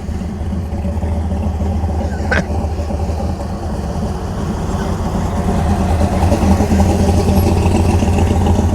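Plymouth Satellite's engine running slowly with a lumpy, choppy idle, the lope typical of an aggressive camshaft. It gets louder over the second half as the car rolls closer.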